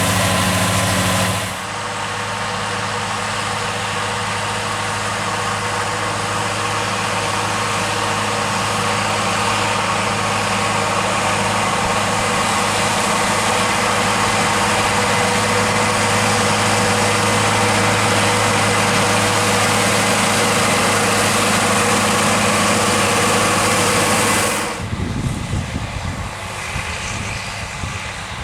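Massey Ferguson 3630 tractor running steadily under load while mowing grass with a John Deere 1360 mower. Its engine note holds a constant pitch, with abrupt changes in sound about a second and a half in. Near the end the sound turns quieter and more gusty, with wind on the microphone.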